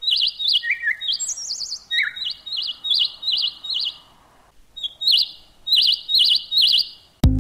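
Bird chirping: a series of short, quickly warbled high notes, repeated with brief pauses. Right at the end, electronic music with a beat starts suddenly.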